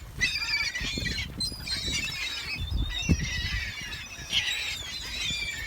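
A flock of birds gathered to be fed, many high squealing and squawking calls overlapping without a break, over a low rumble.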